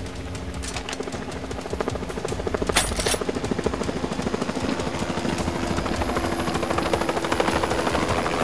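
A fast, even throbbing pulse over a held low drone, helicopter-like, with a sharp hit about three seconds in.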